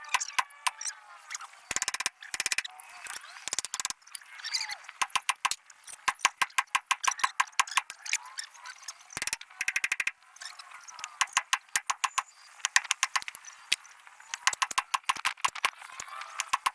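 Hand ratchet wrench clicking in quick short runs, stroke after stroke with brief pauses, as bolts are worked during a gearbox swap on a mini excavator.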